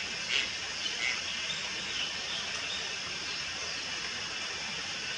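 Juvenile Malayan night heron giving a few short calls in the first second or so, each fainter than the last, over a steady high hiss.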